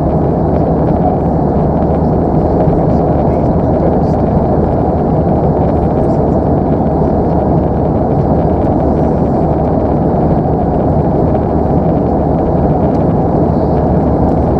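Steady, loud cabin noise of an Airbus A319 in flight: an even low rumble of engine and airflow, unchanging throughout.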